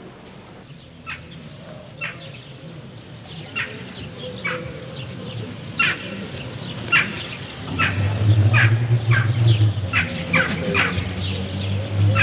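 Birds calling: short calls, a few at first and then more and more often. A low steady hum comes in about eight seconds in and grows louder.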